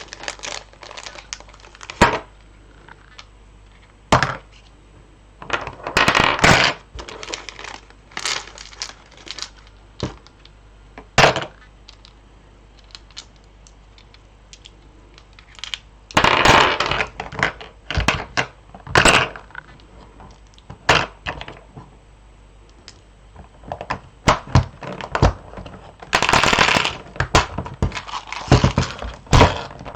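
Beads and their plastic storage being handled while sorting: scattered sharp clicks and taps, with three longer bursts of rattling about six, sixteen and twenty-six seconds in.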